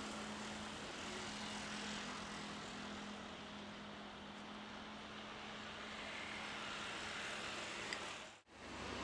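Jet airliner engines heard as a steady rushing noise, with a low hum that fades out about three seconds in. The sound drops out abruptly for a moment near the end.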